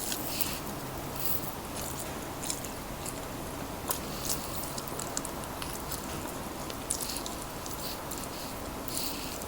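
Close-miked eating of crispy fried chicken and fried rice: scattered crunches and wet chewing sounds.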